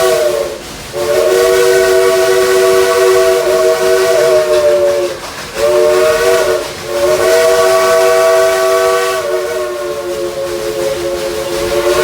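Steam locomotive whistle blowing a multi-note chord in repeated blasts: one ending just after the start, a long blast of about four seconds, a short one, then a long final blast whose pitch sags and rises again. Steam hiss underneath.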